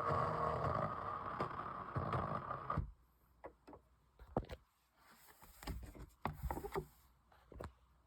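A badly pressed vinyl record playing on a turntable, giving a dense, noisy rumble rather than clean music. It cuts off suddenly about three seconds in. Scattered clicks and thumps of handling the turntable and record follow.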